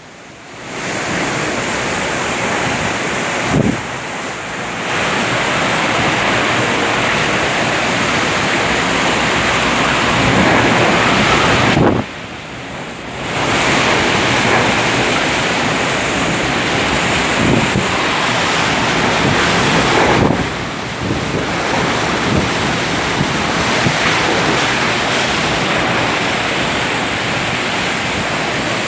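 Floodwater rushing and churning steadily, with wind buffeting the microphone. The noise drops briefly three times.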